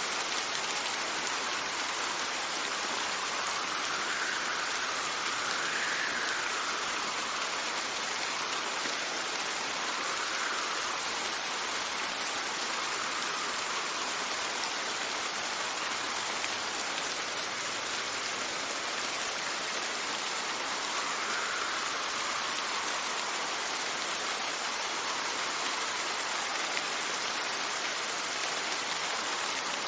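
Steady rain falling, an even hiss, with wind swelling softly in gusts a few times.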